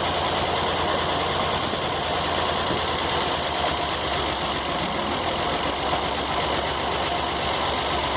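Sawmill engine idling steadily, spinning a 49-inch circular saw blade freely on a test run with no log in the cut.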